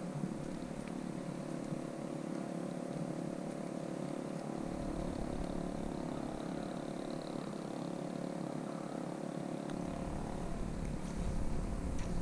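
Small boat engine running at a steady speed, a constant hum.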